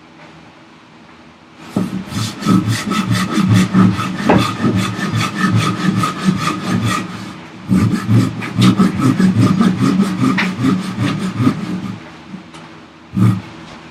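Thin, flexible hand saw cutting through a wooden block in rapid, even strokes. Sawing starts about two seconds in, breaks off briefly, resumes, stops about twelve seconds in, and one last short stroke follows.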